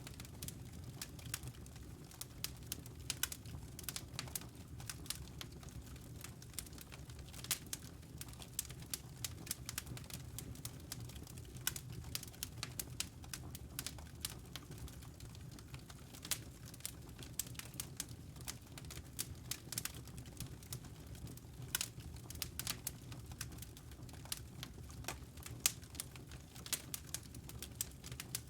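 Wood fire burning in a fireplace: irregular sharp crackles and pops over a low, steady rumble of flame.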